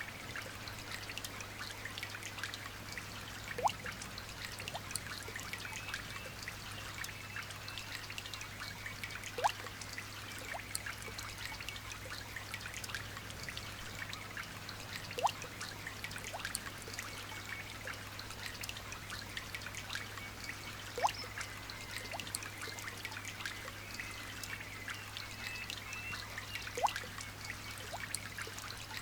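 Light rain falling in a steady patter and trickle of many small drops. Five louder drip plops, each rising briefly in pitch, come about every six seconds.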